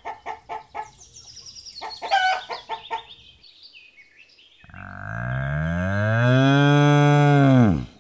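A rooster clucking in quick, repeated notes for about three seconds. After a short pause comes a bull's long, low moo, held steady and falling away at the end.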